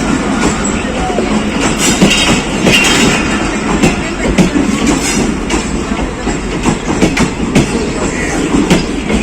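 Passenger train running through the station: a steady rumble of wheels on track, with frequent sharp clicks as the wheels pass over rail joints.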